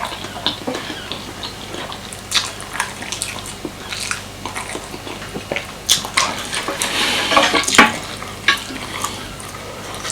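Cutlery clinking and scraping on a plate while someone eats: a run of short clicks, with a longer stretch of scraping about seven seconds in.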